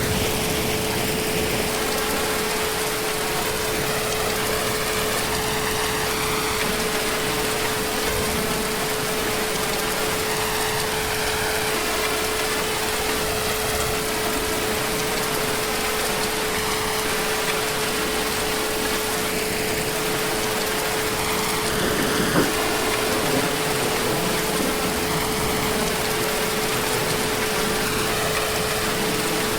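Heavy rain falling steadily as an even hiss, with a constant hum under it. There is a single short knock about three-quarters of the way through.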